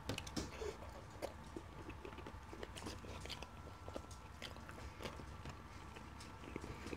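A person faintly chewing a mouthful of flatbread dipped in chicken curry, with small mouth clicks and smacks scattered throughout.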